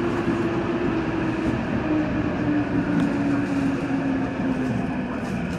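Commuter train running on the Toyo Rapid Railway line, heard from inside the carriage: a steady rumble of wheels on rails with a humming tone that slowly drops in pitch.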